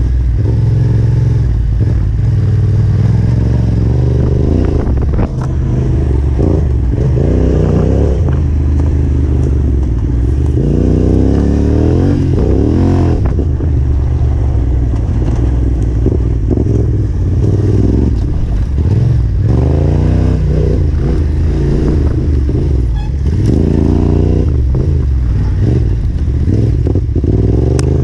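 Yamaha Ténéré 700's parallel-twin engine under way off-road, the revs rising and falling again and again as the throttle is worked, with occasional short knocks.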